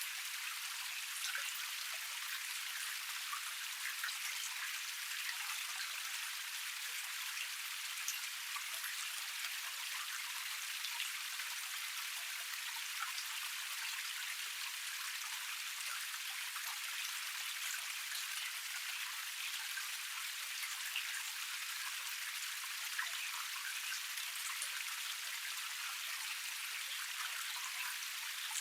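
Water of a small forest cascade running and splashing over rocks: a steady, high, hissing wash with no low rumble, dotted with many small droplet splashes.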